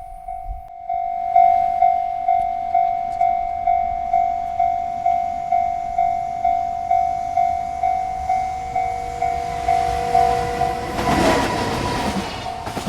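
Railroad crossing bell ringing in even strokes about twice a second. About eleven seconds in, a passing freight train's rumble and rail noise swell up loudly over the bell.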